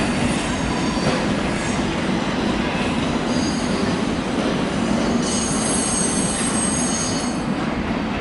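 Freight train of car-transport wagons loaded with vans rolling away through the station, a steady rumble of wheels on rail. The wheels squeal in high thin tones, faintly about three seconds in and loudest from about five to seven and a half seconds in.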